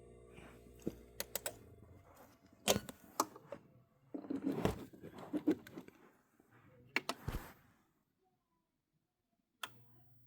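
A series of sharp clicks and knocks with some rustling, the sound of things being handled. A steady low hum fades out about a second and a half in and comes back with a click near the end.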